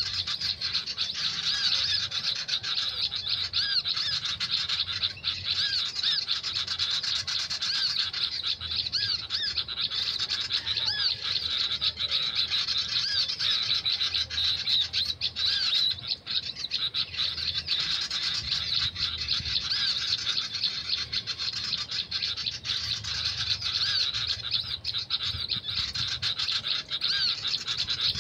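Dense, unbroken bird chattering and calling, full of quick repeated arching high notes that keep going at an even level.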